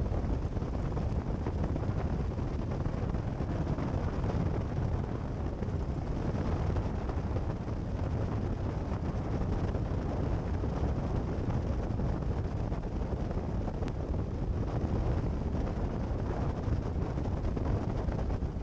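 Cessna 172 Skyhawk's piston engine running at low taxi power, heard as a steady low drone through the cockpit headset intercom feed.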